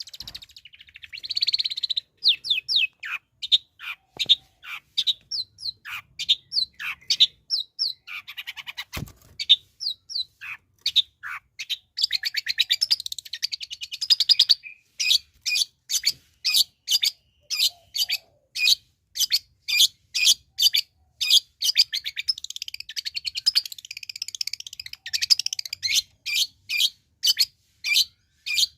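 Long-tailed shrike (cendet) calling: a long series of short, sharp notes, each sweeping downward, about two a second, with stretches of fast chattering in between.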